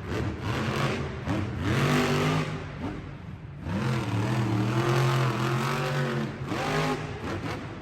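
Monster truck engine revving hard, rising and falling in pitch several times, with a long high rev about four to six seconds in.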